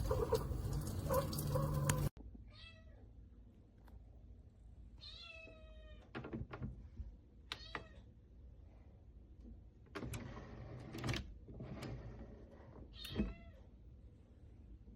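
A cat meowing about four times, the calls spaced a few seconds apart. Before that, a loud steady noise cuts off suddenly about two seconds in.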